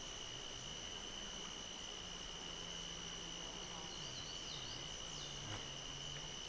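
Evening insect chorus: a steady, unbroken high-pitched trill. A few faint bird chirps come in a little past the middle, over a faint low hum.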